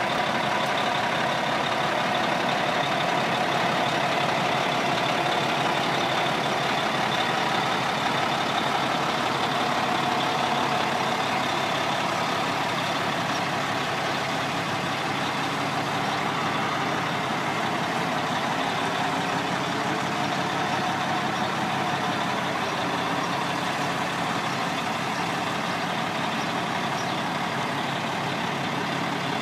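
Caterpillar diesel engine of a 1996 Ford B750 truck idling steadily.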